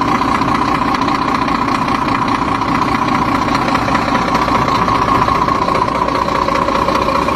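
A steady engine idling sound, loud and unchanging, laid in as a sound effect: it cuts in and out abruptly.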